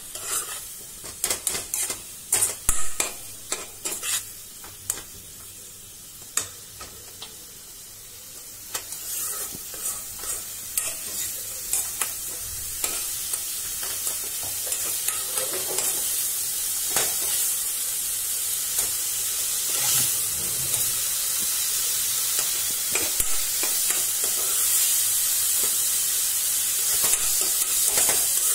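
Food frying in oil in a kadhai (Indian wok), stirred with a spatula while it browns until golden. Clicks and scrapes of the spatula against the pan come over a sizzle that grows louder and steadier from about nine seconds in.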